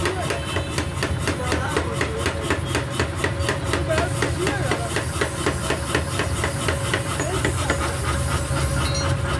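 Rapid, even hammering on hot metal at a blacksmith's forge, about five blows a second, clearest in the first few seconds, over a steady low hum and hiss.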